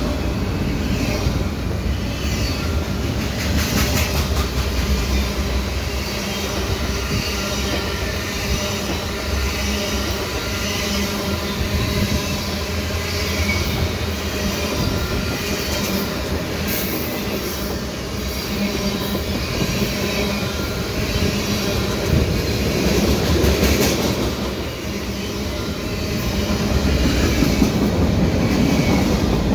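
Freight cars of a long train rolling past close by: a steady rumble and clatter of steel wheels on the rails as double-stack container cars, covered hoppers and tank cars go by. A few brief sharp high-pitched sounds cut in, near the start, about midway and about three quarters through.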